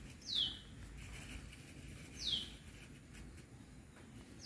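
A bird calling: a short high whistle sliding downward, repeated about every two seconds.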